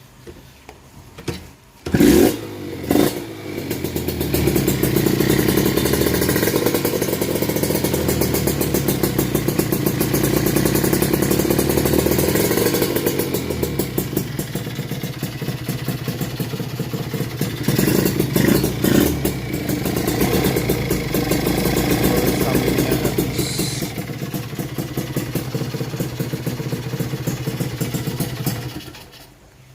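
Kawasaki Ninja RR two-stroke single-cylinder motorcycle engine cold-started: two loud sputters about two seconds in, then it catches and runs at a fast idle. It is revved up a couple of times around the middle and is switched off shortly before the end.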